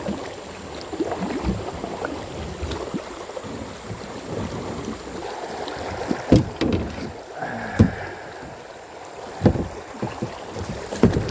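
Kayak paddling on a flowing creek: paddle blades splashing and dripping in the water, with a few sharp knocks in the second half.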